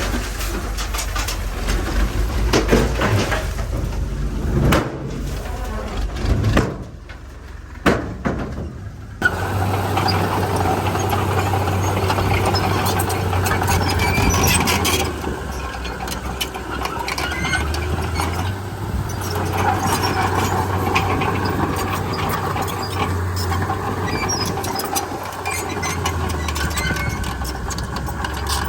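Komatsu D31P crawler bulldozer working: its diesel engine runs steadily under frequent metallic clanks and knocks from the tracks and blade, with a brief quieter dip about seven seconds in.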